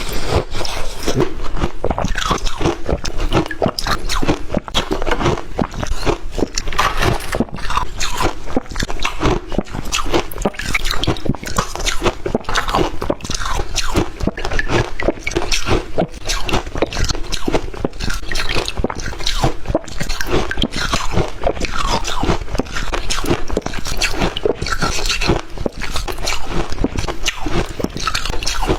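Close-miked crunching and chewing of water-dipped shaved ice: dense, continuous crackling crunches as the ice is bitten and chewed.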